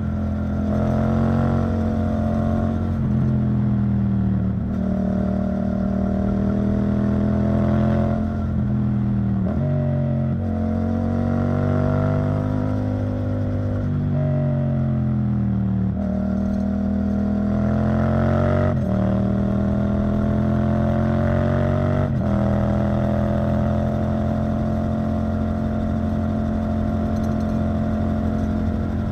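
Yamaha MT-07's parallel-twin engine running through an Arrow Thunder titanium exhaust. The engine note rises and falls steadily with the throttle, with several sudden jumps in pitch along the way.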